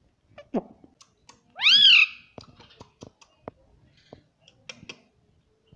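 Ringneck parrot giving one loud, shrill call that rises and falls, about a second and a half in. Scattered sharp clicks are heard throughout, with a short falling note near the start.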